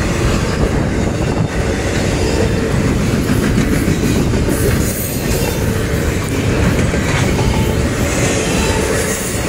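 Double-stack intermodal freight train's loaded well cars rolling past: a loud, steady noise of steel wheels running over the rails.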